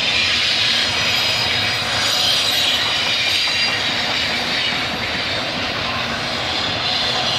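CN intermodal freight train rolling past: a steady rumble of railcar wheels on the rails, with a faint high wheel squeal over it.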